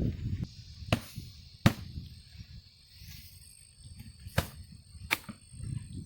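Four sharp clicks or taps, spaced unevenly, over low rumbling noise, with a faint steady high tone throughout.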